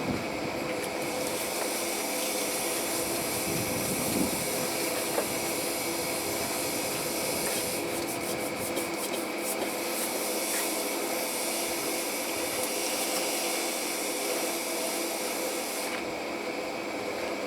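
Machinery running steadily with a constant hiss and a few steady tones, unchanging throughout.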